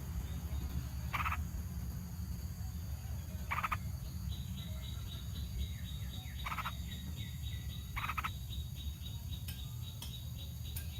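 Four short, rasping animal calls spaced a few seconds apart over a steady low rumble; from about four seconds in, a fast train of high, evenly repeated chirps joins them.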